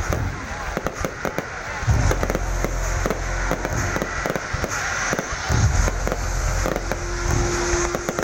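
Fireworks display: a dense stream of sharp cracks and pops, with deeper booms about two seconds in and again past the middle. A steady tone joins near the end.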